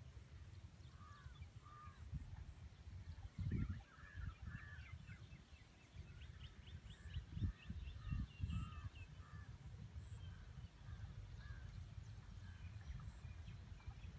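Birds calling in the open: repeated short call notes and quick runs of high chirps, over a low steady rumble that swells louder about three and a half seconds in and again around eight seconds in.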